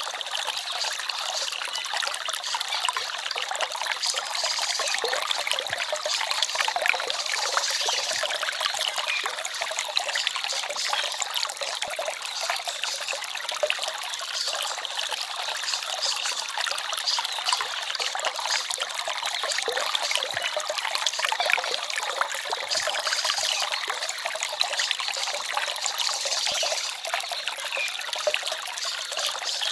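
Small forest stream trickling and babbling steadily over stones.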